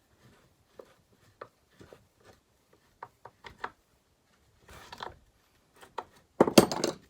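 Screws, tools and chainsaw parts being handled while a screw is fitted into the chainsaw: scattered small clicks and knocks, a short scrape about five seconds in, and a louder rattling scrape lasting about half a second near the end.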